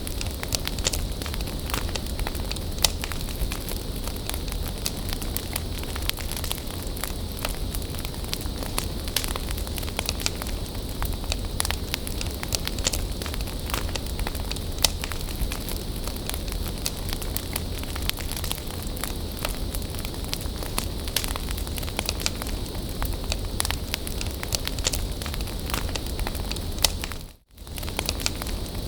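Wood bonfire burning, crackling steadily with frequent sharp pops over a low rumble. The sound cuts out for an instant near the end.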